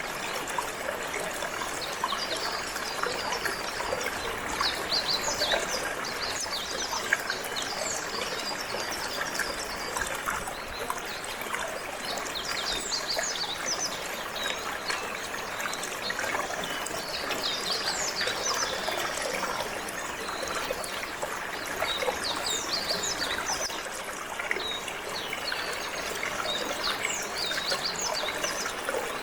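Water trickling and flowing steadily, with canaries chirping in short, quick, high twittering runs that come and go over it.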